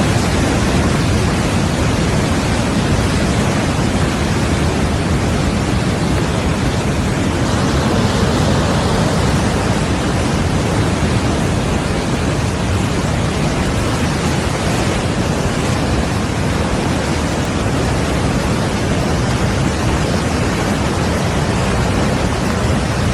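Landslide: a mountain hillside giving way and sliding downhill, heard as a loud, steady rushing roar of earth and debris with no distinct impacts.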